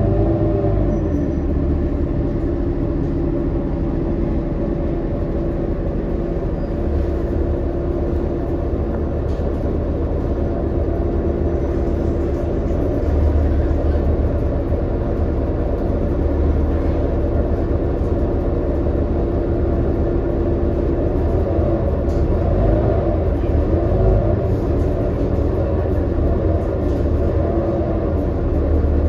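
Inside a New Flyer XD40 diesel city bus while it drives: a steady low rumble from the engine and drivetrain with several held tones. The tones drop in pitch at the start and waver up and down near the end.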